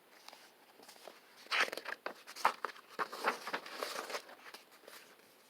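Paper rustling and crinkling with small clicks, the handling of a picture book's pages as they are turned.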